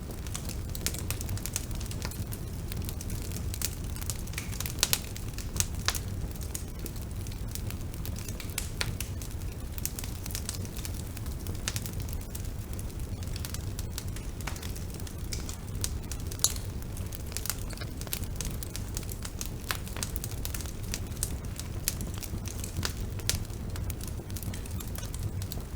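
Bonfire burning steadily, with a constant low rumble of flame and irregular sharp crackles and pops of burning wood.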